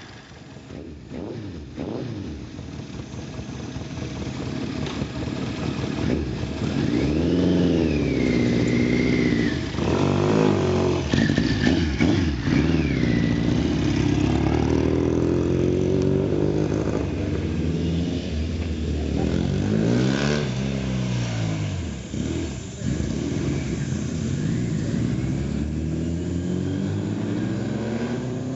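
MV Agusta 750 America's air-cooled four-cylinder engine being revved, its pitch rising and falling several times, louder from about seven seconds in.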